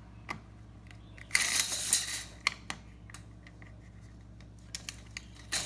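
Plastic parts of a DeWalt mini tape measure being handled as its cover is put over the top: a short scraping rub of plastic on plastic about a second and a half in, light scattered clicks, and a sharper click at the end.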